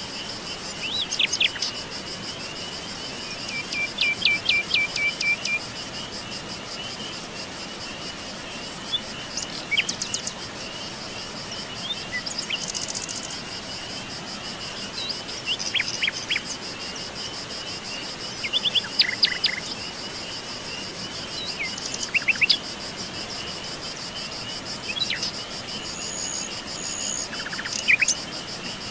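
Forest birds calling in short bursts of chirps and quick repeated notes every few seconds over a continuous high, fast-pulsing insect trill.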